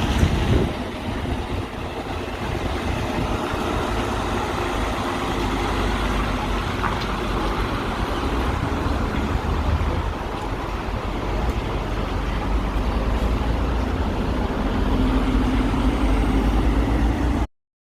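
Road traffic with lorries going past: a steady rumble of engines and tyre noise. The sound cuts off abruptly near the end.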